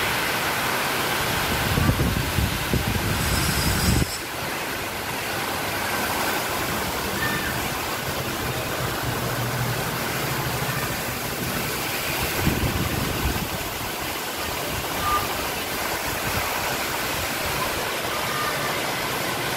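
Heavy rain pouring down in a steady dense hiss. Gusts of wind buffet the microphone with a low rumble at about 2 to 4 seconds and again about 12 seconds in. A faint low drone runs underneath through the middle.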